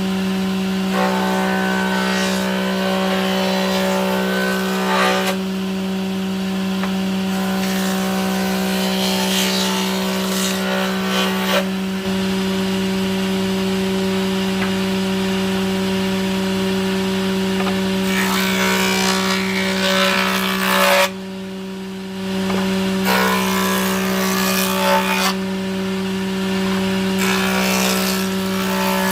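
Electric woodworking power tool running with a steady hum, cutting into wood in several passes of a few seconds each, with a rasping sound on every pass.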